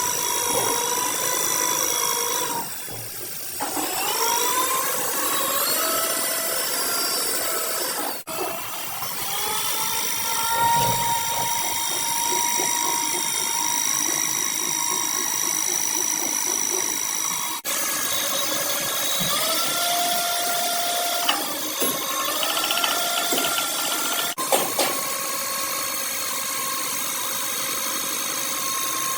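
Electric power tool whining steadily at high speed. Its pitch sags and climbs again several times as the load on it changes, and the sound breaks off abruptly three times.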